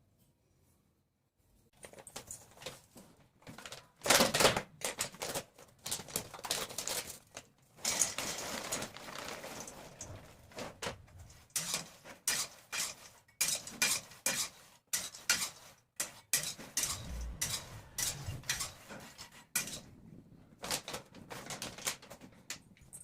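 Dishes and cutlery clattering and clinking as they are handled and set down: irregular sharp knocks one after another, starting about two seconds in.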